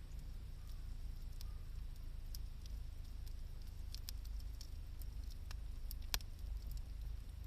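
Wood campfire crackling, with scattered sharp pops and ticks, the loudest about six seconds in, over a low steady rumble.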